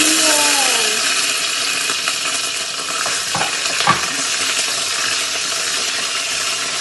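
Slit green chilies sizzling in hot oil in a frying pan, a steady loud hiss, with a few clicks of a utensil against the pan about two to four seconds in.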